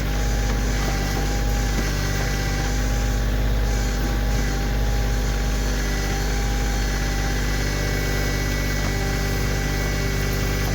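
Kioti CK2610 compact tractor's three-cylinder diesel engine running steadily at an even speed.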